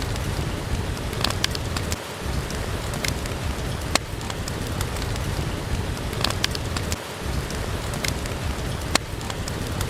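Steady rain with scattered sharp crackles and pops from a wood fire.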